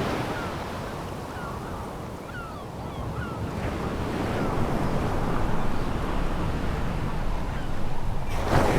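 Sea waves on a pebble beach: one wave's wash fades and drains back, the surf builds again, and a new wave breaks sharply near the end. A few faint high chirps sound early on.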